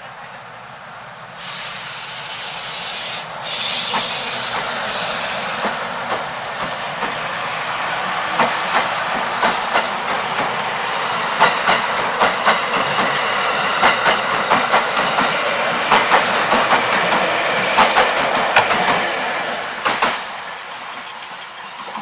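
Train passing close by: a rushing noise builds, then the wheels click steadily over the rail joints for about twelve seconds before the sound fades away.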